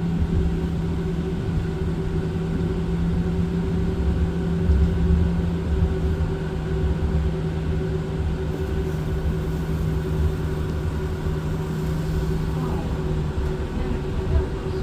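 Tram interior noise: a steady electrical hum with two held tones over a low, fluctuating rumble.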